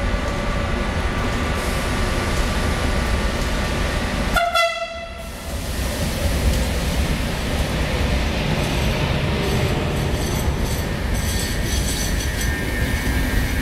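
Trenitalia ALe 426 electric multiple unit pulling out: a steady rumble with several high steady tones, and a short horn blast about four and a half seconds in. In the second half the wheels rattle with a repeated high-pitched clatter as the train picks up speed.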